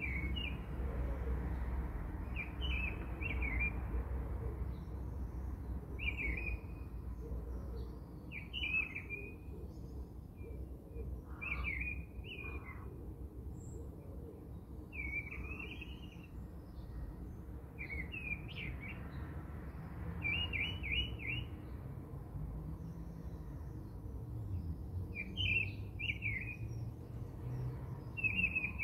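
A small bird chirping in short twittering phrases of about a second each, repeating every few seconds, over a low steady hum.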